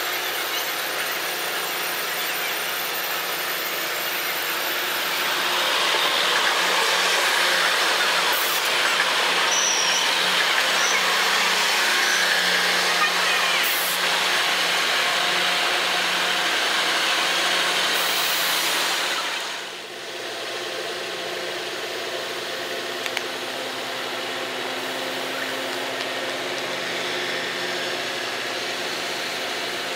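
A train running by, a steady rush of wheel and rail noise, sped up to double speed, that grows louder about five seconds in. After about twenty seconds it cuts off suddenly and gives way to a quieter, steady engine hum.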